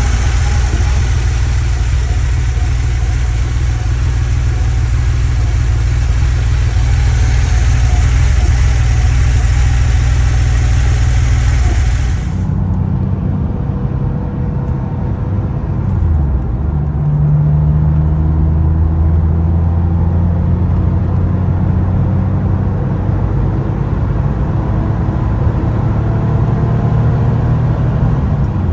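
Porsche 911 Carrera 3.2's air-cooled flat-six engine idling steadily; about twelve seconds in the sound changes abruptly to the engine running under way, its pitch dipping and shifting once around sixteen seconds in and then holding fairly steady.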